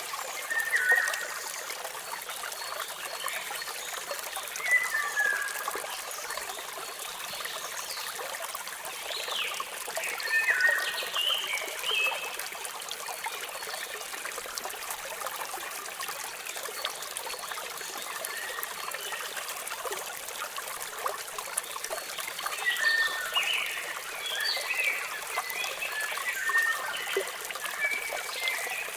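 Steady rush of falling water from a waterfall, with birds chirping over it in short bursts: about a second in, around five seconds, several times between nine and twelve seconds, and a busier run of chirps in the last six seconds.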